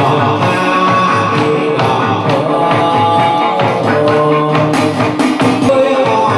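Chầu văn ritual music: a voice singing over a plucked lute with steady, rhythmic percussion.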